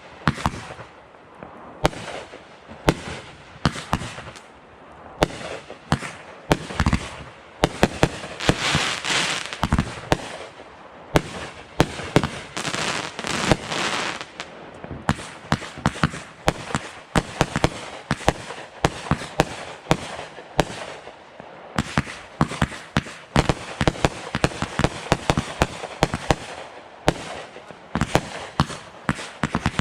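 Fireworks going off in quick succession: a steady run of sharp bangs and pops, with denser stretches of crackling about eight seconds in and again around twelve to fourteen seconds.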